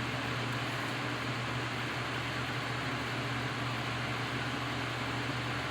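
Steady hum and hiss of a running fan, unchanging throughout, with no knocks or clicks standing out.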